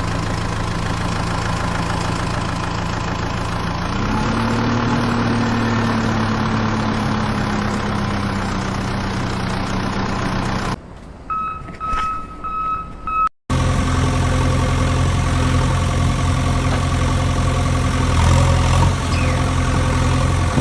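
Engine running steadily, its pitch stepping up slightly about four seconds in. A cut about eleven seconds in leads to a quieter stretch with a steady beep-like tone, then another engine idling steadily from about thirteen seconds.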